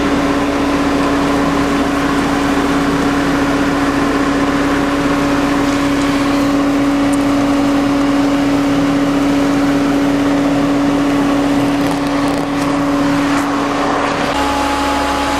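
Bee vacuum running steadily with a constant hum while sucking up honey bees, its suction turned down so it barely lifts them. A second, higher steady tone joins near the end.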